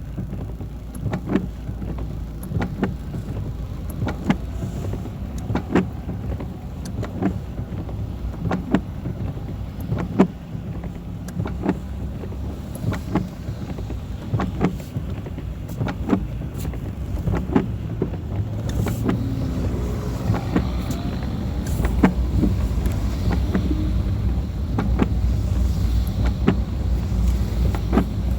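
Car driving on a wet road in the rain: a steady engine and road rumble with scattered sharp taps of raindrops hitting the car. The rumble grows louder about two-thirds of the way through as the car speeds up.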